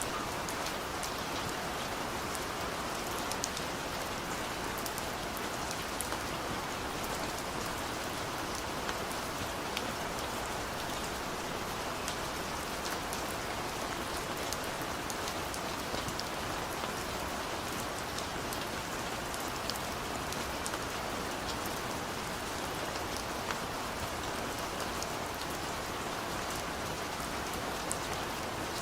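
Heavy downpour of rain falling steadily, a dense even hiss with scattered sharp drop ticks.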